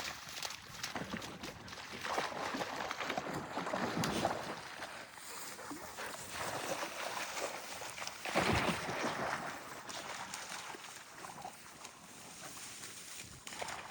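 Water splashing and sloshing as spaniels swim and paddle, with a louder splash a little past halfway.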